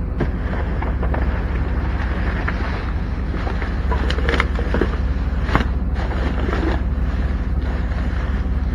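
Steady low rumble with a few light clicks and rustles, the sharpest click about five and a half seconds in.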